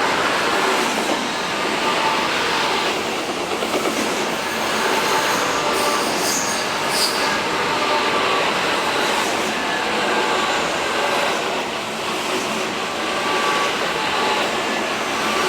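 A train running past on the rails at speed, a steady loud rush of wheels and running gear with a few brief high wheel squeaks about six seconds in, fading soon after.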